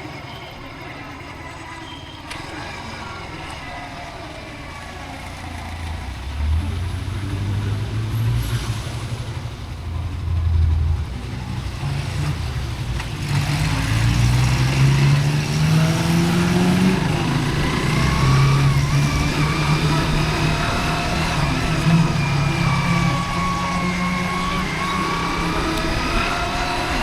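Motorcycle engine pulling away and accelerating, its pitch climbing, dropping once about eleven seconds in, then climbing again and settling at a steady cruise.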